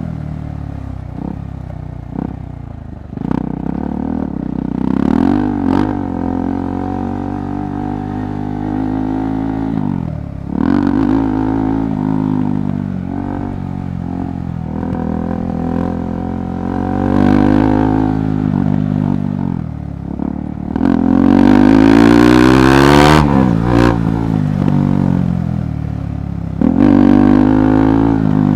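KTM 390 Adventure Rally's single-cylinder engine under riding load, its pitch rising and falling repeatedly as the throttle is opened and closed, with a long loud surge of revs about three quarters of the way through. Occasional knocks are heard along with it.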